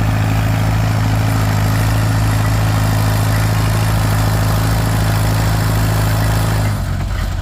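Allis-Chalmers WC's four-cylinder engine running hard at steady high speed under full load, pulling the weight sled. Near the end the engine note drops suddenly as the throttle comes off and the pull ends.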